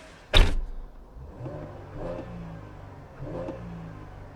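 A car door shuts with a heavy thump about half a second in. Then the 2014 Camaro's 3.6-litre V6 on its stock exhaust is blipped twice, heard from inside the cabin, with the pitch rising and falling on each rev.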